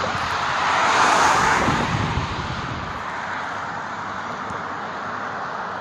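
A road vehicle passing close by, its tyre and engine noise swelling to a peak about a second in and fading away, leaving a steady hum of traffic.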